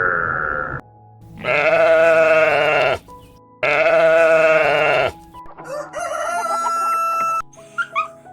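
Bleating farm animal: a call ending just under a second in, then two long, wavering bleats about a second and a half each, over background music.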